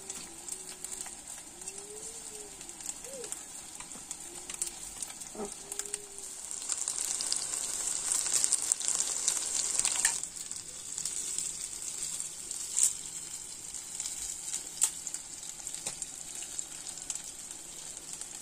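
Battered chicken pakoras deep-frying in hot oil in a wok: a steady sizzle that swells into louder crackling for a few seconds around the middle, then settles back, with a few sharp pops later on.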